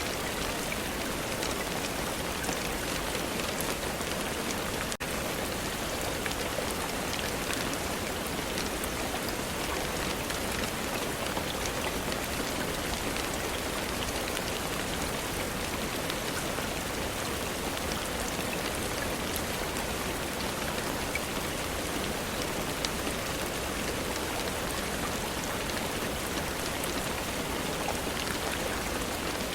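Steady rain, a continuous hiss with many individual drops heard as fine ticks. The sound drops out for an instant about five seconds in.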